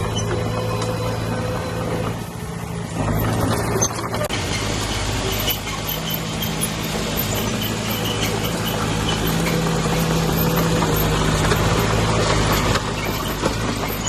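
Heavy diesel engine of earthmoving equipment running steadily, a little louder in the second half and dropping back slightly near the end.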